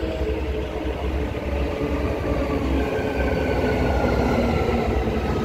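Transperth electric multiple-unit train pulling into the platform: a steady low rumble of wheels and motors, with a faint whine slowly falling in pitch in the second half as it slows.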